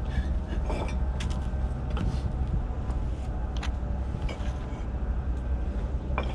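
Bricks being set in place during dry laying, several short sharp knocks and clinks of brick on brick, over a steady low hum.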